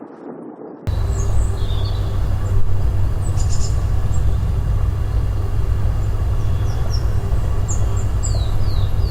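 Small birds chirping in short high calls over a loud, steady low rumble, which starts abruptly about a second in.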